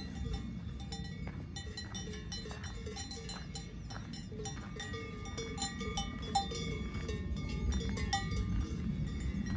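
Cowbells on cattle clanking irregularly, several bells at different pitches ringing over one another, over a steady low rumble.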